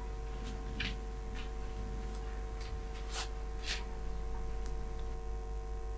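A steady background hum with about half a dozen short, light clicks and scrapes scattered through it.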